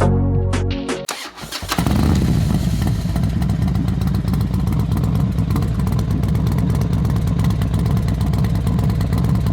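Background music ends about a second in, then a motorcycle engine starts and runs steadily at idle.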